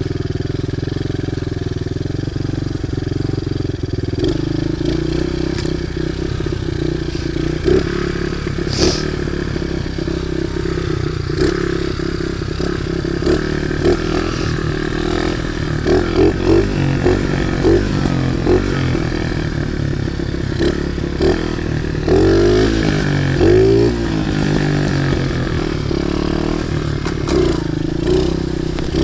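Small pit bike engine running as the bike is ridden, its pitch rising and falling in the middle stretch, with scattered clattering knocks. The engine holds high revs with the throttle off and is slow to idle down, a fault the rider plans to fix.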